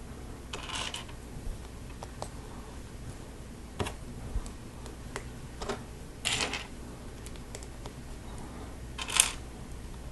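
Lego Technic parts being handled and fitted: scattered small plastic clicks, with a few short scraping rustles about one, six and nine seconds in, the last the loudest.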